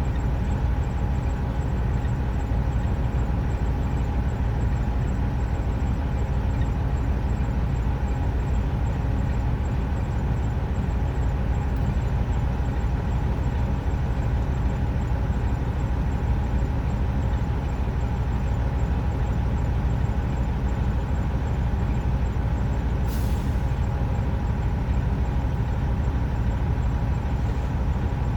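Heavy truck engine running steadily, a constant low rumble with a steady whine on top, and a short hiss of air about 23 seconds in.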